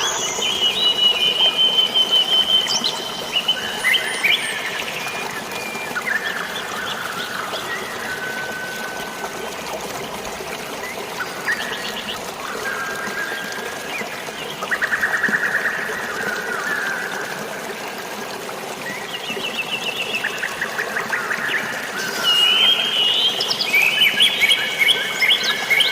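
Several birds chirping and trilling in short phrases over a steady hiss of falling water. The bird calls come thickest near the start and again near the end, with rapid trills in between.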